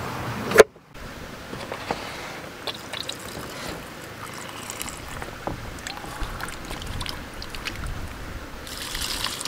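A knife knocks once on a wooden cutting board less than a second in. Then water runs steadily from a drink cooler's spigot into a metal pot of cut potatoes, with small clinks.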